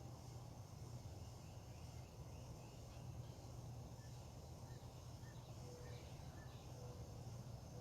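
Quiet outdoor ambience at dawn: a steady low hum under a faint, steady high insect drone, with a few faint short bird chirps and calls in the second half.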